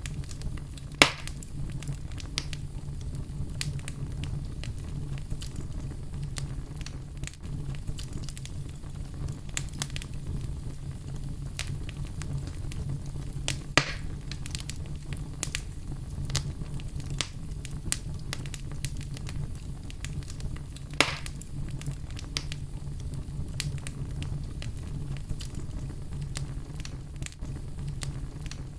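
Wood fire crackling in a fireplace: a steady low rumble of flames with scattered sharp crackles and a few louder pops.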